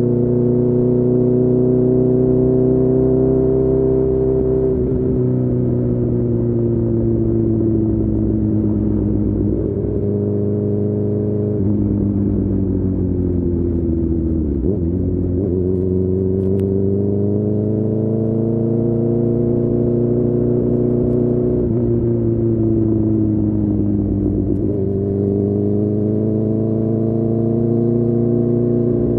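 2019 Honda CB1000R's inline-four engine with a full Akrapovic exhaust, running at moderate revs on the move. Its pitch sags and climbs gently, with a few sudden steps. About halfway through it dips sharply and climbs back.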